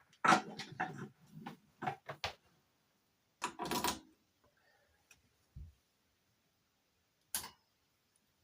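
Handling noises: a quick run of knocks and clicks, then a short scraping burst, a low thud and a single sharp click, like objects being unpacked and set down.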